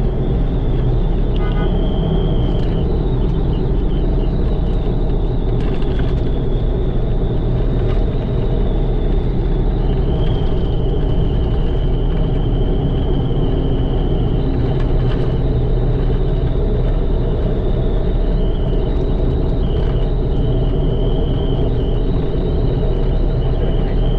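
Mitsubishi Pajero's freshly rebuilt 4D56 turbo-diesel engine running steadily under way, a dense low drone with a thin high whine above it whose pitch shifts slightly a few times. The engine is still being run in.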